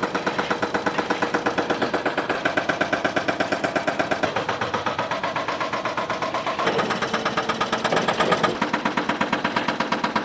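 Engine of the concrete-pouring machinery running steadily with a fast, even beat of about seven pulses a second.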